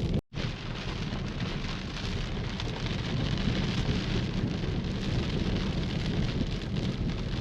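Heavy rain pouring down in a thunderstorm, a dense steady hiss over a deep low rumble. The sound cuts out for an instant just after the start, then carries on unchanged.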